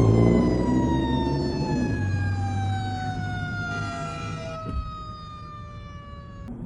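A siren winding down: one pitched wail sliding slowly and steadily lower, to about half its starting pitch over some six seconds, then cut off abruptly near the end. A low rumble sits under it at first and fades within the first two seconds.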